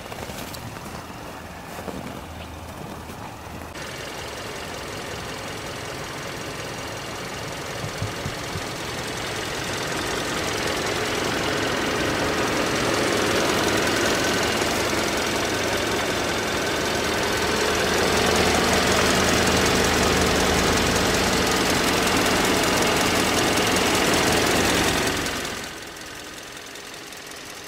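2017 Hyundai Sonata's 2.4-litre GDI inline-four (G4KE) idling steadily. It grows louder over the first dozen seconds and drops off abruptly about three seconds before the end.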